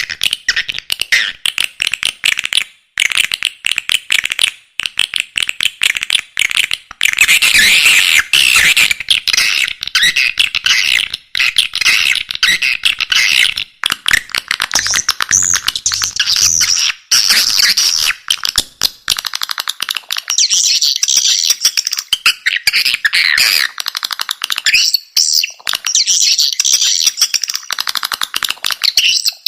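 Recorded swiftlet calls: a dense, rapid chittering of chirps and clicks from many birds, with short breaks. This is a swiftlet 'call sound' lure, played from speakers to draw edible-nest swiftlets into a nesting house.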